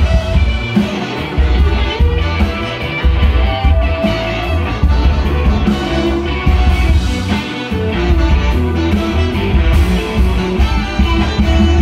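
Live rock-and-roll band playing an instrumental passage, with guitar over bass, drums and Hammond organ.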